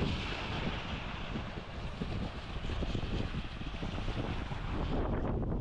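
Wind buffeting the microphone in gusts, with sea waves washing in beneath it.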